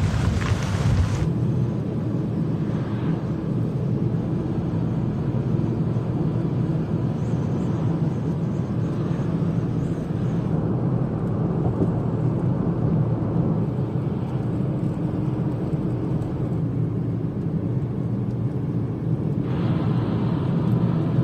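Steady low rumble of vehicle road noise, with a hiss above it that changes abruptly about a second in, about ten seconds in and near the end.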